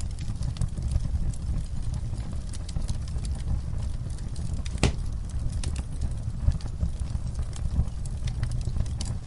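Campfire crackling: a low steady rumble of burning wood with frequent small snaps, and one sharp, louder pop about five seconds in.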